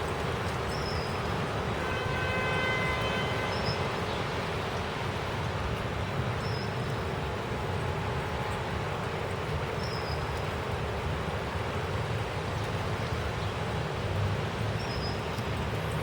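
Steady rush of heavy thunderstorm rain and wind. A held horn-like tone sounds for about two seconds near the start, and a faint high chirp repeats every few seconds.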